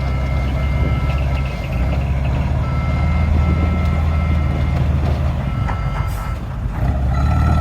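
Dump truck's diesel engine running with its reversing alarm sounding a repeating beep over the engine.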